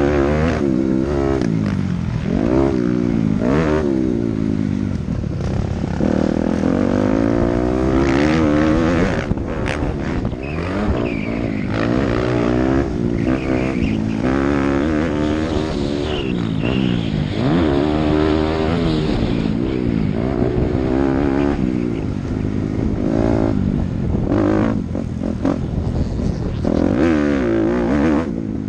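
Dirt bike engine revving hard on a motocross track, its pitch climbing and dropping again every couple of seconds through throttle and gear changes.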